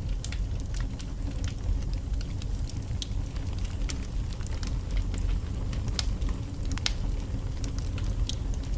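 Wood fire burning in a fireplace: a steady low rumble of flames with frequent irregular sharp pops and crackles from the logs.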